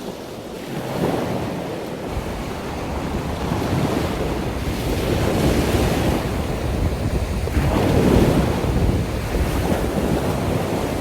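Waves washing in on a beach, swelling and easing, with wind buffeting the microphone.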